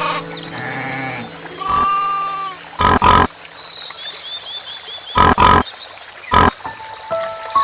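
An animal grunting: short, loud, rough calls, a pair about three seconds in, another pair around five seconds and a single one a second later. A quick run of about six high chirps falls between them, and background music fades out about a second in.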